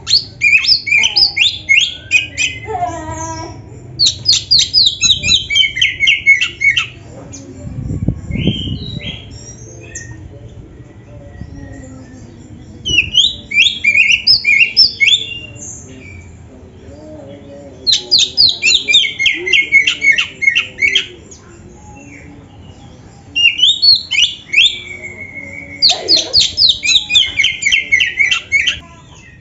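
Oriental magpie-robin (kacer) singing loud phrases of rapid, repeated chipping and whistled notes. The phrases come about seven times, with short pauses between them.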